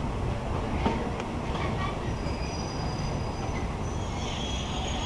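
State Railway of Thailand passenger train no. 283 running on the rails with a steady low rumble and a few clicks, joined about two seconds in by a high, steady squeal of the wheels on the rails.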